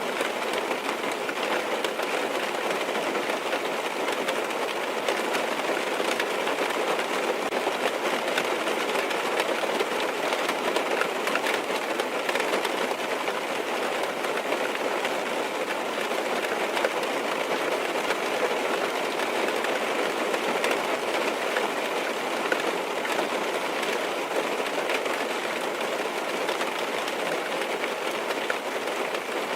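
Steady rain tapping on a car's roof and windows, heard from inside the car: a dense, even hiss with faint scattered drop ticks.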